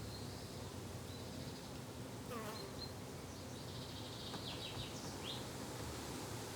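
Garden ambience of flying insects buzzing steadily, with small birds chirping over it. One falling chirpy call comes about two and a half seconds in, and a quick run of short high chirps follows around four to five seconds in.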